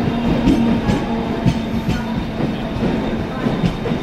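Mumbai suburban electric local train rolling along the platform: a steady rumble and hum with irregular clacks of the wheels over the rail joints.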